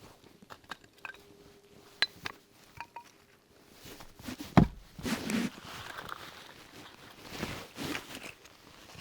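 Indoor handling sounds: scattered light clicks and taps, a single sharp knock about halfway through, then rustling.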